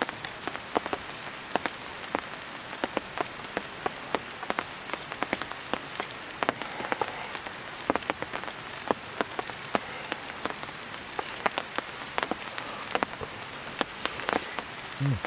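Wood campfire crackling: irregular sharp pops and ticks, a few a second, over a steady hiss.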